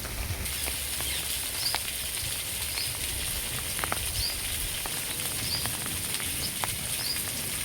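Steady rain falling on flooded ground and water, with scattered drip ticks and splashes.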